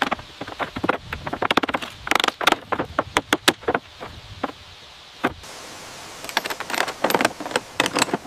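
Rapid clatter of sharp clicks and knocks, in two bursts with a lull of about two seconds between them.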